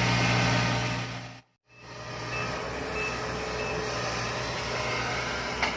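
A heavy machine's engine idling steadily. The sound cuts out completely for a moment about a second and a half in, then returns quieter.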